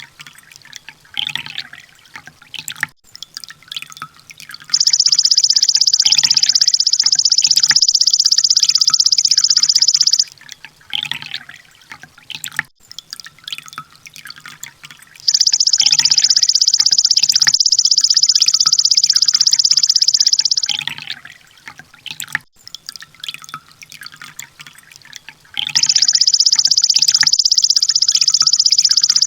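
Sunbird song on a masteran loop: a dense, rapid, high-pitched trill lasting about five and a half seconds. It starts three times, about ten seconds apart, and softer scattered chirps and drip-like clicks fill the gaps between.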